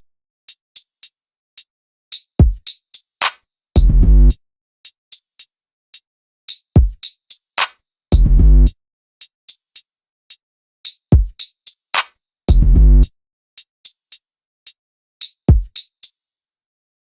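Sparse hip-hop drum-machine beat with no melody: short crisp high hits, like hi-hats or claps, and a handful of deep booming bass kicks, with dead silence between the hits.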